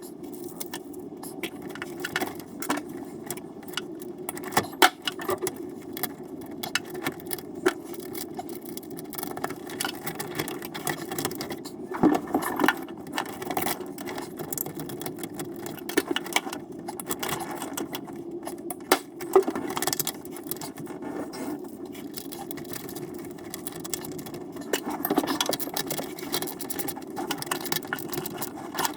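Irregular clinks, rattles and scrapes of metal tools and battery hardware being handled during a battery change in an aluminum boat, over a steady low hum.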